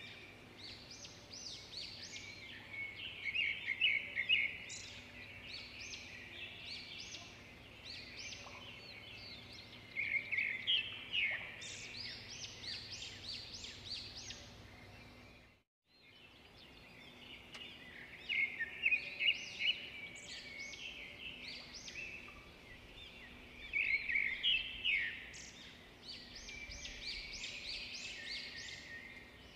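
Small birds chirping and twittering in bursts of quick, high notes over a faint steady hum. The sound drops out completely for a moment about halfway through, then picks up again.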